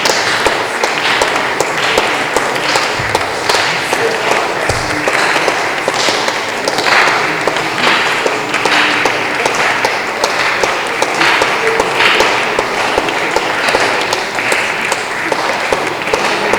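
A congregation clapping their hands while praying aloud together, many overlapping voices with no single clear speaker.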